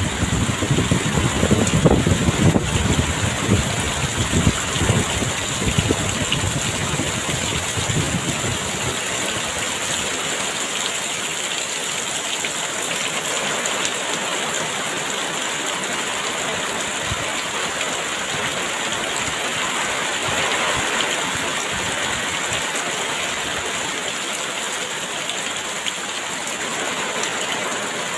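Heavy rain falling steadily, with gusts of wind rumbling low in the first eight seconds or so.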